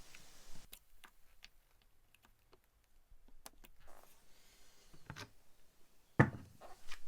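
Faint, scattered clicks and light taps as a drill bit is set through the skateboard truck's baseplate holes to mark the deck, with a louder knock about six seconds in.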